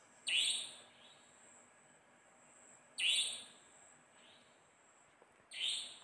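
A bird calling: three loud, short calls about two and a half seconds apart, each falling in pitch, the first two followed by a fainter repeat about a second later.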